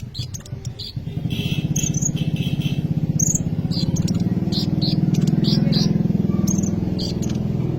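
An engine running steadily with a fast, even pulse, swelling a little in the middle, under a sunbird's short, high chirps scattered throughout.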